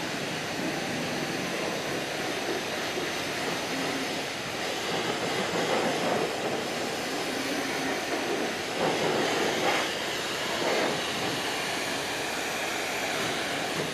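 High-pressure wand of a self-service car wash spraying water onto a pickup truck and its snowplow: a steady hiss of spray that swells louder a few times in the second half.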